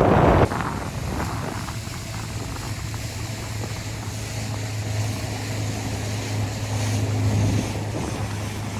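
Boat motor running steadily on the lake, a low, even hum under wind noise, after a loud rush of noise in the first half second.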